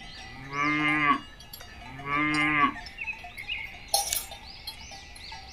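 A cow mooing twice, two held calls in quick succession.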